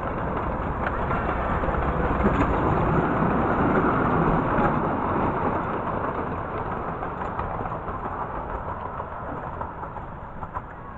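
Miniature railway train passing: a rumbling running noise that swells to its loudest about four seconds in, then fades away.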